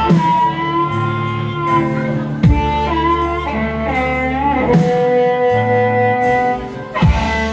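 Live rock band playing an instrumental passage: organ and guitar holding long sustained notes over bass, with two heavy accented hits, one about two and a half seconds in and one near the end. The live recording clips in places.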